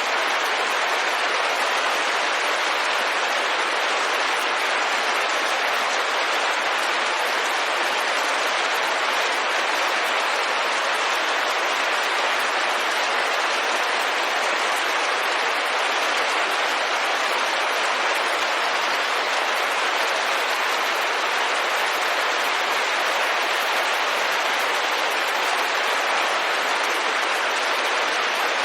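Steady rain pattering on a window, an even hiss of dense drops with no thunder or separate drips standing out.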